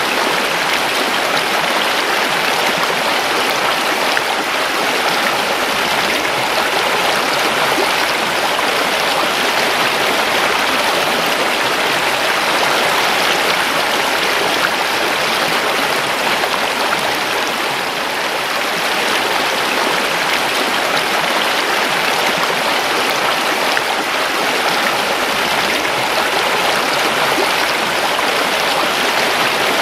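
River water flowing steadily over rocks, a continuous rushing with fine splashing detail.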